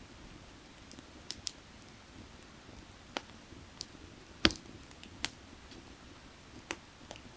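Burning firewood crackling: about eight sharp, irregular pops and snaps, the loudest about halfway through, over a faint steady rush of creek water.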